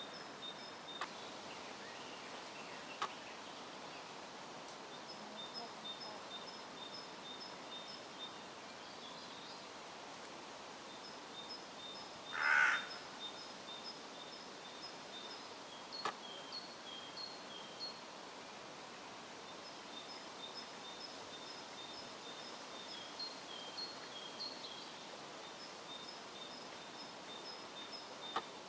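Hooded crow giving a single harsh caw about halfway through, over faint, rapidly repeated high ticking notes that recur in series throughout.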